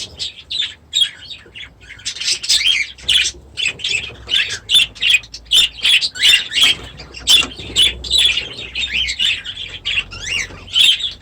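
A flock of aviary birds chirping and squawking, with many short calls overlapping without a break.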